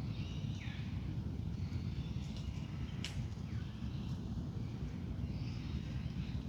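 Wild birds calling in a dawn chorus: scattered short calls and chirps over a steady low rumble, with one sharp click about three seconds in.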